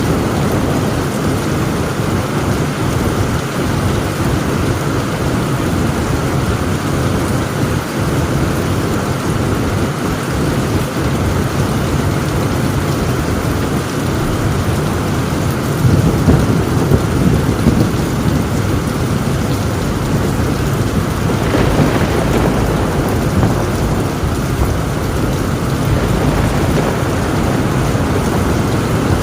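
Heavy rain falling steadily on a tin roof, with thunder rumbling low underneath; a louder roll of thunder swells a little past halfway through.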